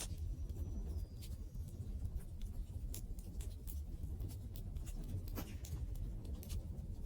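Wood fire crackling, with irregular sharp pops and ticks over a low steady rumble of the flames. A faint high whistle sounds near the start and drops slightly in pitch about a second in.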